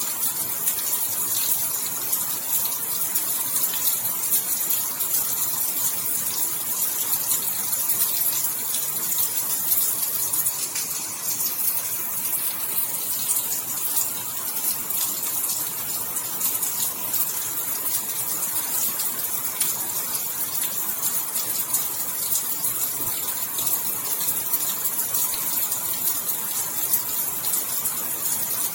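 Steady rain falling: an even hiss of many fine drops.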